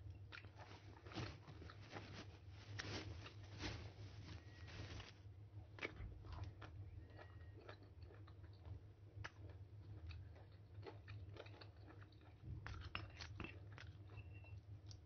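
Close-up biting and chewing of crisp unripe (green) mango slices, giving many sharp crunches. They come thick and fast for the first few seconds, then as sparser chews, with another cluster about three quarters of the way through.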